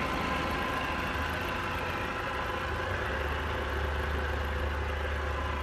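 Peugeot/Citroën NFU 1.6-litre petrol four-cylinder engine idling steadily.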